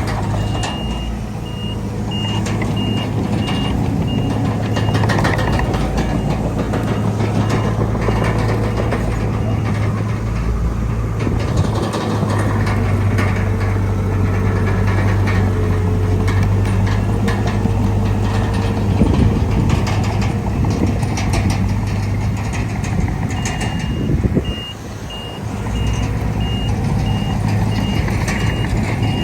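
Heavy diesel earthmoving machinery running steadily with clanking. A reversing alarm beeps evenly for the first few seconds and again near the end.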